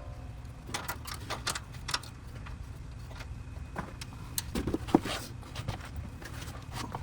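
Scattered light metal clicks and clinks of tools and suspension parts being handled during car repair work, over a low steady hum.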